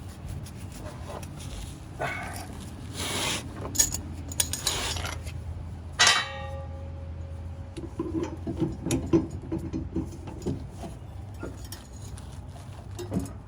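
Steel tools clinking and clanking against the heated blade bolt and mower deck as a wrench is worked on the seized bolt. One sharp metallic clank rings out about six seconds in, followed by a run of light clicks and knocks.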